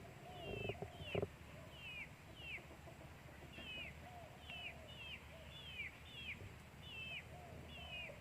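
A steady series of short, high, downward-sliding chirps from an animal, about two a second, over softer lower calls. A single knock about a second in.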